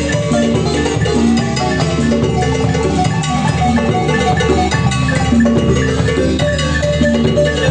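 Marimba music with a drum-kit beat, played without pause.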